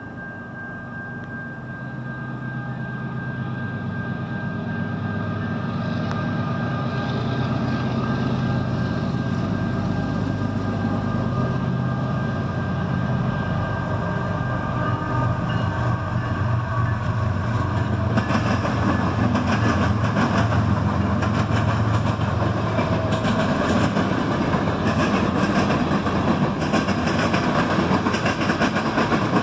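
CN freight train approaching and passing: the locomotives' diesel engines grow steadily louder as it nears. From about two-thirds of the way in, wheels clatter over the rails as tank cars roll by.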